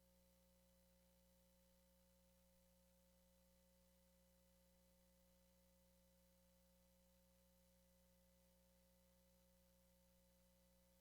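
Near silence: only a faint, steady hum of a few unchanging tones.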